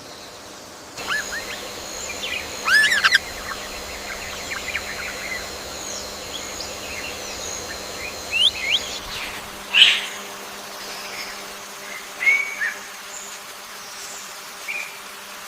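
Several wild birds calling: scattered short chirps and quick up-and-down whistles, a cluster about three seconds in and another sharp call near ten seconds. Under them runs a steady high-pitched drone.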